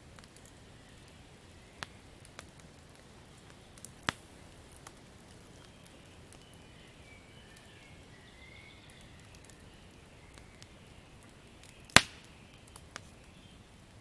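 Wood campfire crackling: sparse sharp pops and snaps over a low hiss, with one much louder pop about twelve seconds in.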